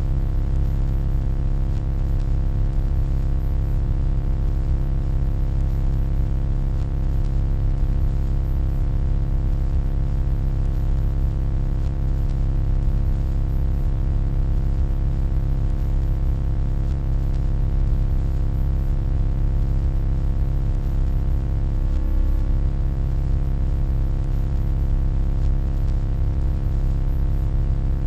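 Steady electronic hum, deep and even, with a cluster of faint steady tones above it; it wavers slightly once, about two-thirds of the way through.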